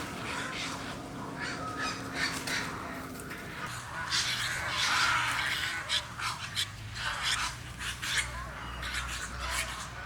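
Hundreds of roosting egrets and herons calling at once: a dense, overlapping din of harsh, not-so-rhythmic cackles.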